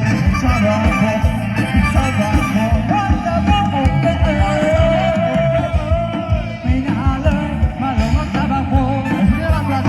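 Loud amplified Thai procession band music: a heavy, dense bass and drum beat under a wavering lead melody line.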